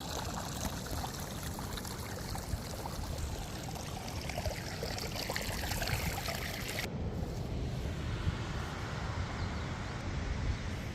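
River water flowing steadily in a continuous rushing noise; the high hiss drops off abruptly about seven seconds in.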